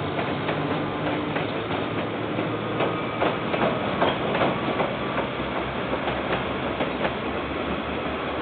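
Freight train of container wagons rolling past, wheels clicking and clacking over rail joints over a steady rumble. The clicks come thickest a few seconds in. Heard through a security camera's microphone, so the sound is dull, with no highs.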